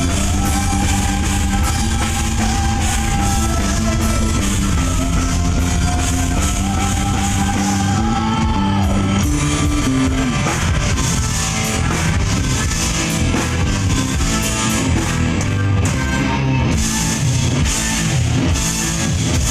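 Live rock band playing through a PA during a sound check: electric guitar over drum kit and bass. The first half carries long held, slightly bending lead notes, which give way at about the middle to busier playing.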